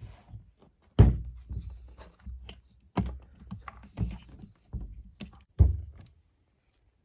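A run of dull thumps and knocks from parts being handled and set down during a hands-on installation, about five strikes with light scraping between them. The loudest comes about a second in and again near the end.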